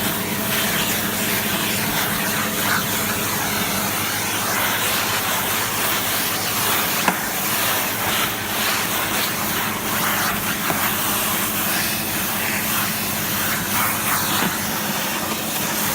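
Vacuum cleaner running steadily: motor hum with air rushing through the hose. Scattered small clicks and one sharper click about halfway through, as grit from a blocked hose is sucked through.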